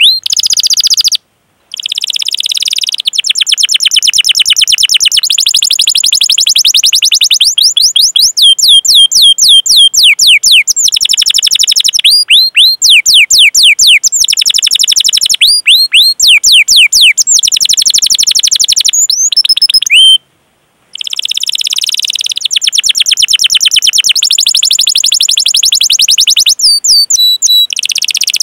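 Domestic canary singing: long fast rolls of rapidly repeated high chirps, alternating with slower, separate 'cuit' call chirps. Twice the sound cuts out to silence for about half a second.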